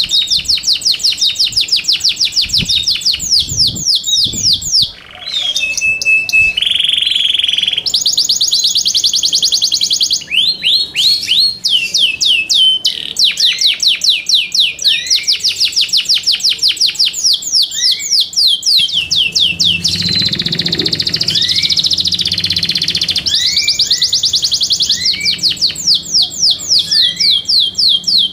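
Yorkshire canary singing: long, fast trills of rapidly repeated downward-sweeping notes, with a steady whistled note held about six seconds in and another about twenty seconds in.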